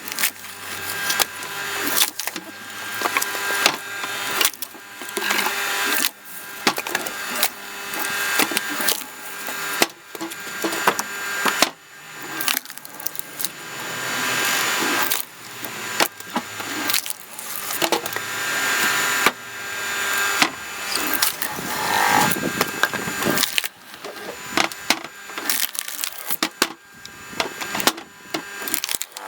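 Logs cracking and splintering as a cone log splitter bursts them apart, with many sharp cracks, the noise repeatedly building and then breaking off suddenly.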